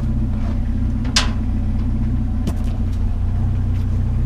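Vehicle engine idling steadily, with a single sharp knock about a second in and a few faint clicks.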